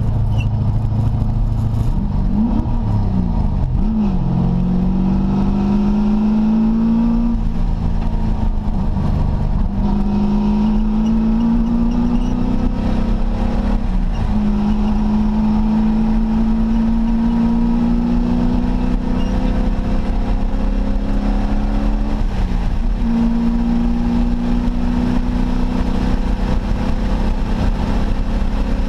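1989 Ford Mustang Fox Body race car's engine under hard acceleration on track. Its pitch climbs steadily in long pulls and drops back briefly about three times as the revs fall and pick up again, over constant wind and road noise. In the first few seconds the revs waver up and down.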